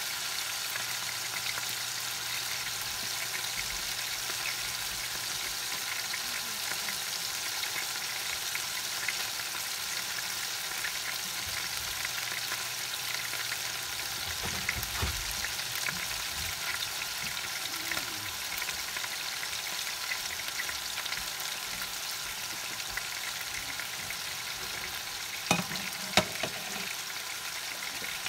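Ground-pork burger patties sizzling steadily as they fry in butter in a skillet, with two short knocks about two seconds before the end.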